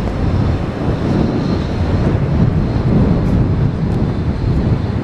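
Strong wind buffeting the camera microphone, a loud low rumble that rises and falls with the gusts.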